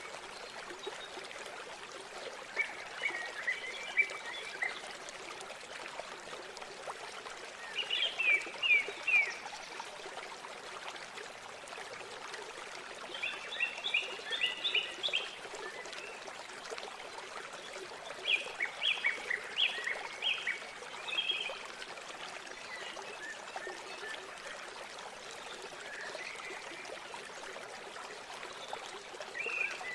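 River water flowing steadily, with birds singing short phrases of quick high notes every few seconds over it.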